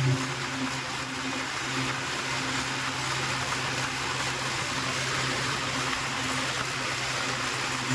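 Tractor engine running at a steady pitch, under a steady rushing noise.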